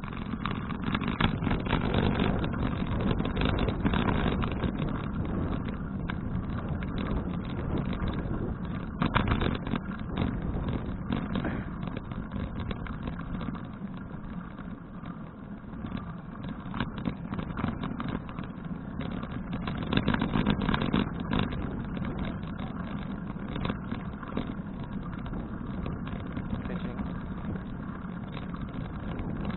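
Wind rush and road rumble on an action camera's microphone during a bicycle ride, with crackling buffets and a few louder swells.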